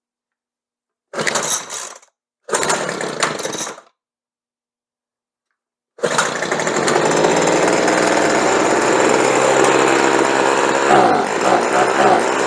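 Small two-stroke leaf blower engine firing in two short bursts of about a second each, then starting and running steadily from about six seconds in, its freshly adjusted carburettor set at full throttle. Near the end the running wavers and turns uneven.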